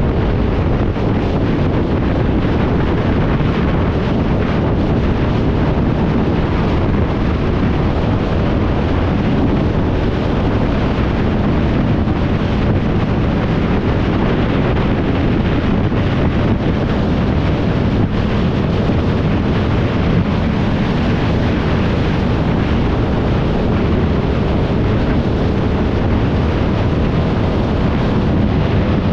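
Steady wind rush on the microphone of a moving motorcycle, with a faint hum from its engine underneath.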